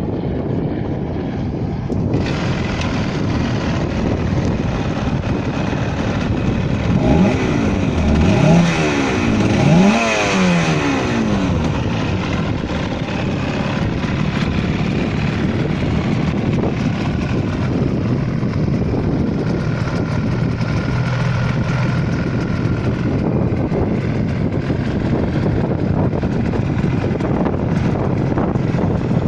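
1989 Yamaha TZR250 3MA two-stroke parallel twin running through Jackal exhausts, revved up and down a few times about seven to eleven seconds in, then settling to a steady idle.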